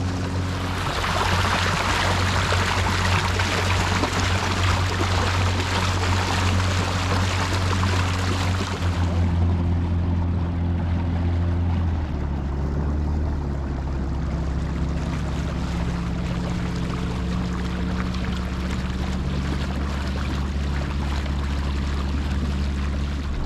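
A boat's motor running steadily with a rushing wash of water over it for the first nine seconds or so. The rush then dies away, and about twelve seconds in the motor's note drops lower, as if throttled back.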